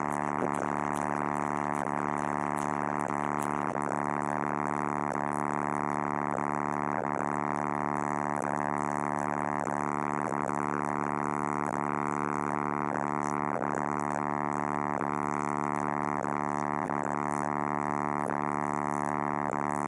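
Subwoofers in a Chevy truck's car-audio system playing a steady, buzzy bass drone at high volume, with faint sweeping wavers every second or two.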